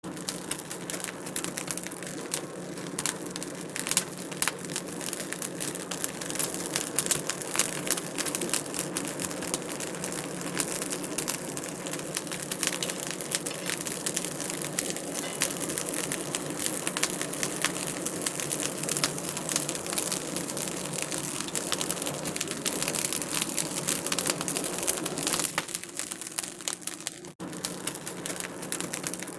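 Wood fire crackling in a fireplace: a dense run of small pops and snaps over a steady hiss. It cuts out for an instant near the end.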